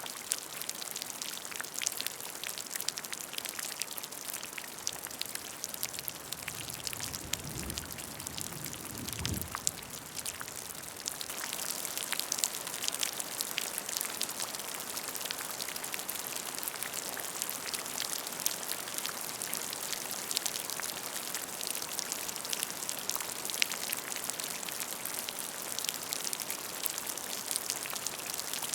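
Steady rain falling onto a puddle of water: a constant patter of many individual drop splashes over an even hiss. A brief low rumble passes under it about a quarter of the way in.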